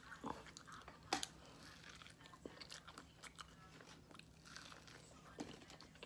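Close-up chewing of a mouthful of Flamin' Hot elote (corn on the cob with a crunchy red coating): a string of quiet crunches and bites, the sharpest about a second in.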